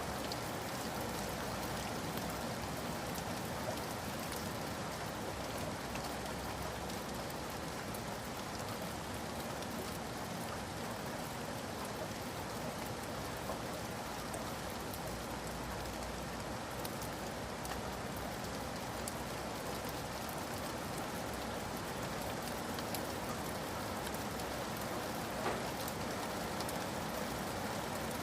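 Steady rain falling, with many small drops pattering on surfaces and one slightly louder drop near the end.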